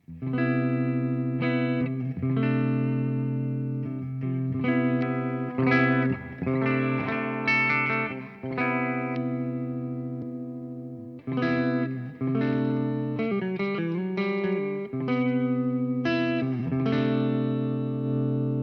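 Electric guitar played through a Joyo R-20 King of Kings, a Bluesbreaker-style dual overdrive pedal: a run of struck chords and short phrases, each ringing with lightly driven sustain, ending on a chord left to ring.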